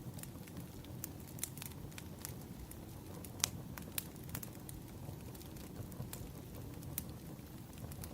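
Firewood burning: a steady low rush of flame with irregular sharp crackles and pops, the loudest about three and a half seconds in.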